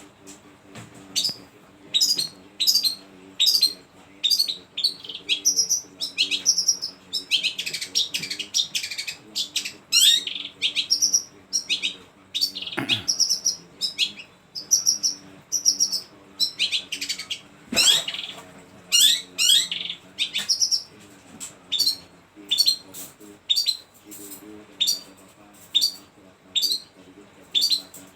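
Long-tailed shrike (pentet) singing a long, varied run of sharp high chirps and calls mimicked from other birds, in quick repeated phrases, twice sliding into a long falling note. A faint steady low hum runs underneath.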